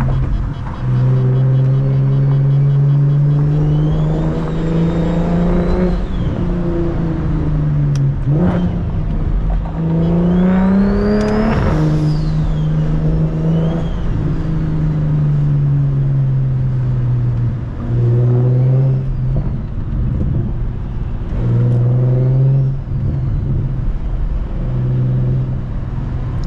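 BMW 335is's single-turbo N54 straight-six driving at low revs, its note dipping a few times as revs fall. About halfway through it pulls harder, the pitch climbing for a couple of seconds with a high turbo whistle rising and falling over it.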